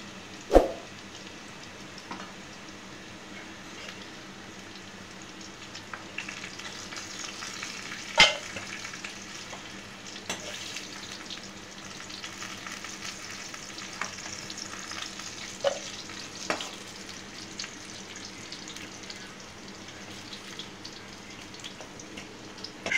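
Fried potato sticks and sliced onions sizzling in oil in a steel wok as they are stirred and scooped out with a metal spatula. A handful of sharp clanks of the spatula against the pan, the loudest about half a second in and about eight seconds in.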